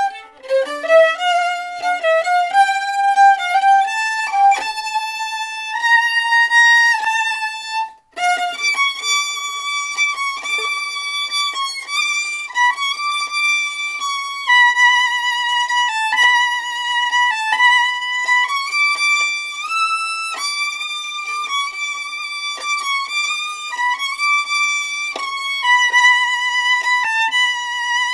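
A single violin playing a melody, mostly held notes changing every second or two, with a brief break about eight seconds in.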